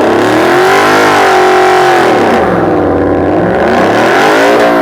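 A car engine revving hard and loud, its pitch climbing, holding high, then dropping back, with a second rev climbing near the end.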